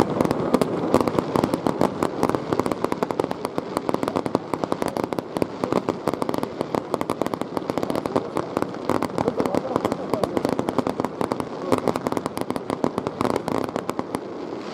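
Aerial fireworks crackling: a dense, continuous stream of rapid small pops that stops near the end.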